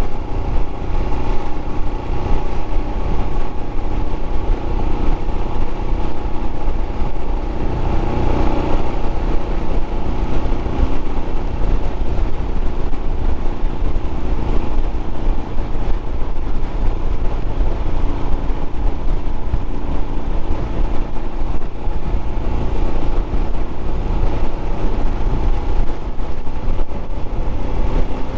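Royal Enfield Scram 411's single-cylinder engine running steadily on the move, under heavy wind rush on the microphone.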